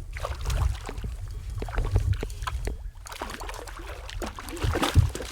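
Water sloshing and dripping around a canoe, with many small knocks and clicks of handling and gear against the hull.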